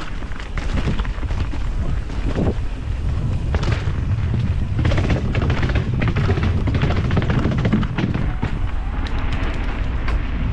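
Mountain bike descending rough ground: wind buffeting the microphone over a steady low rumble, with many sharp knocks and rattles from the bike jolting over bumps.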